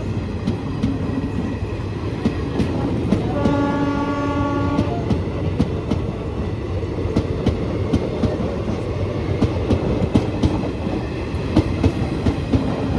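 A train running past with wheels clacking steadily over rail joints, its horn sounding once for about a second and a half a few seconds in.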